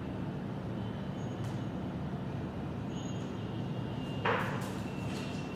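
Steady low background hum, with one brief noisy sound a little over four seconds in.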